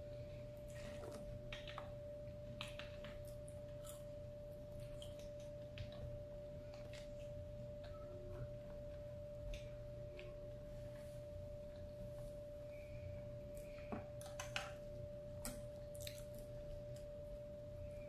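Close-miked chewing and soft mouth clicks of someone eating, scattered and irregular, over a steady faint whine that holds one pitch throughout.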